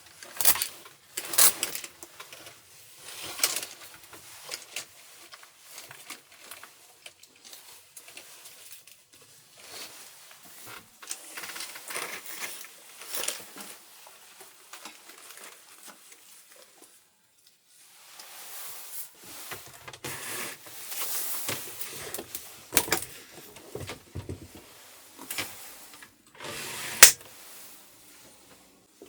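Irregular handling sounds in a small enclosed space: rustling, light clicks and knocks of objects being moved and set down, with one sharper knock near the end.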